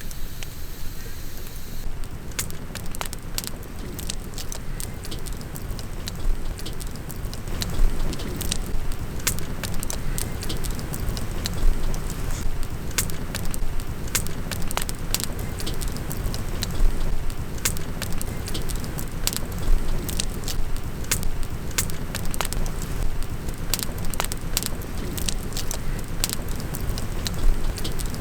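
Wood campfire crackling, with sharp pops scattered irregularly over a steady low rumble.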